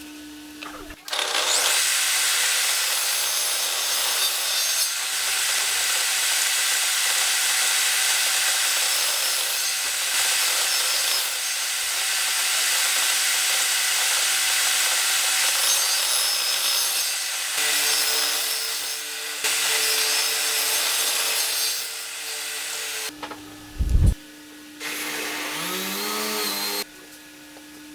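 A power tool cutting or sanding wood, running steadily for about twenty seconds, then a sharp knock and a shorter run near the end.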